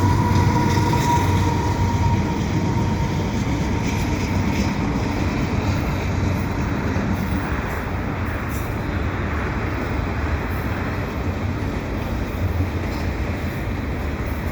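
Double-stack freight train rolling past with a steady rumble of diesel locomotives and rail cars. A thin high whine fades out about two seconds in.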